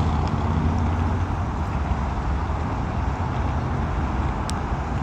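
Steady low rumble of road traffic, with one short tick about four and a half seconds in.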